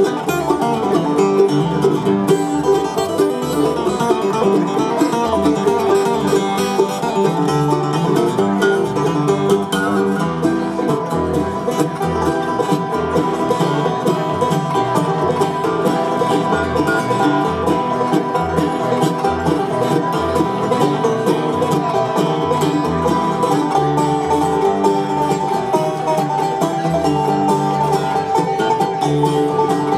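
Bluegrass band playing an instrumental passage: fast picked banjo over strummed guitar, with a steady bass beat.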